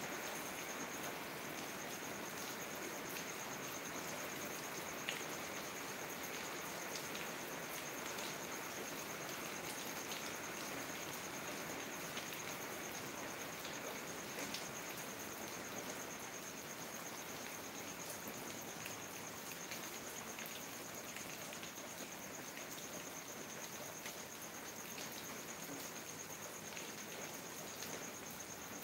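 Steady rain falling on garden foliage and pavement, with scattered drips ticking through it. An insect trills steadily at a high pitch above the rain from about a second in.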